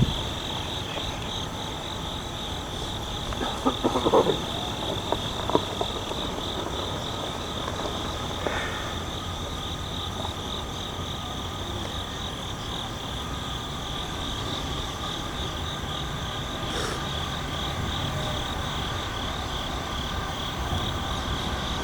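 Insects chirring in a steady, high, slightly pulsing drone, with a few brief louder sounds about four seconds in.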